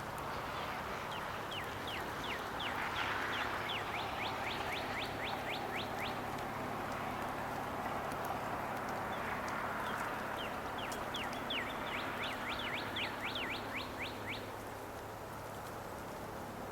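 A small songbird singing two bouts of quick, high, down-slurred whistled notes, each bout speeding up as it goes, over a steady rush of flowing stream water.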